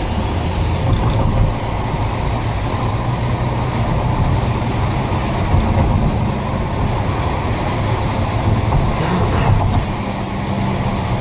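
Renault Grand Scénic's diesel engine running while the car is driven. Its low note shifts a little in pitch with speed over a steady rushing noise.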